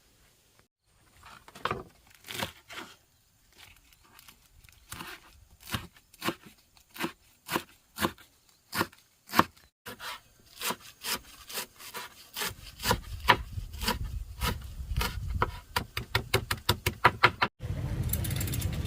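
Repeated chopping strokes on wood, about one or two a second, quickening into a rapid run of strokes near the end. A low rumble joins underneath about two-thirds of the way in.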